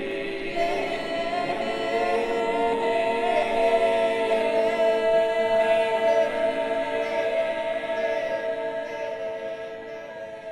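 A group of voices singing long held notes together in harmony, a cappella, swelling to a peak midway and then fading out near the end.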